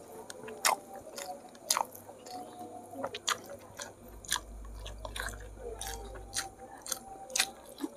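A person chewing close to the microphone with the mouth full, eating goat-head curry and rice by hand: irregular wet mouth clicks and lip smacks.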